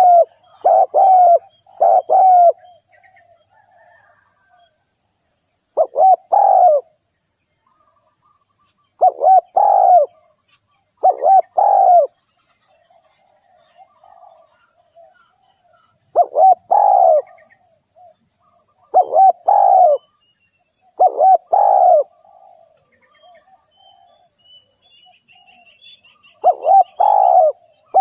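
Spotted dove cooing: short phrases of two or three low, hollow coos, repeated every few seconds. Faint chirps of small birds come in between.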